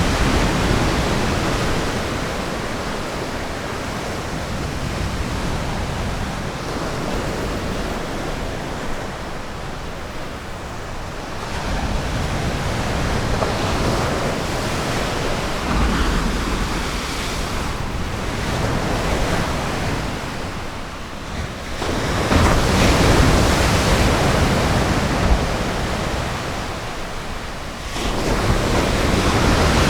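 Ocean surf breaking on the shore: a continuous wash of waves that swells louder every four to six seconds as new breakers come in.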